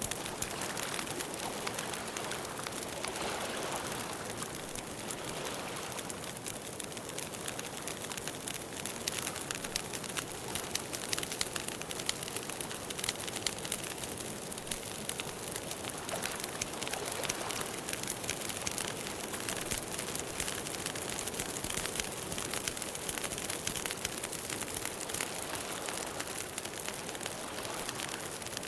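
Campfire burning with a steady hiss and dense, continual crackling and popping.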